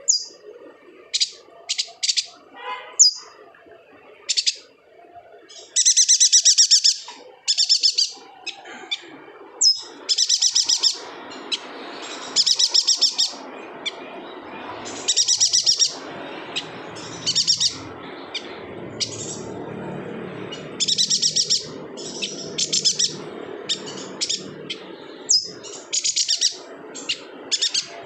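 Chestnut-crested yuhina singing: short bursts of rapid, high chirping trills, repeated every second or two, over steady low background noise.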